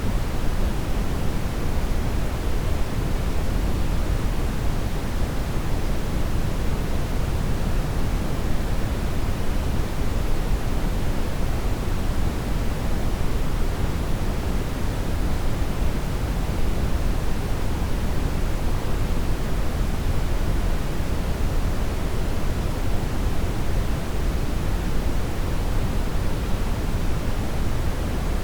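Steady brown noise: an even rushing hiss, heaviest in the bass and thinning toward the treble, without change.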